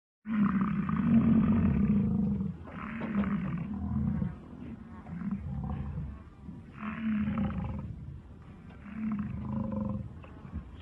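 A big cat roaring: one long deep call, then a string of shorter, weaker calls a second or two apart.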